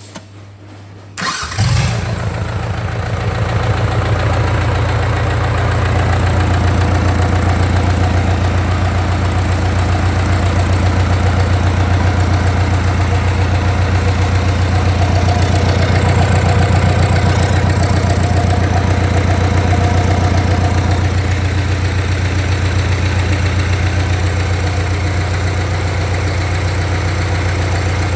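Mitsubishi 4D32 3.6-litre inline four-cylinder diesel engine, reconditioned, starting about a second in and then running at a steady idle.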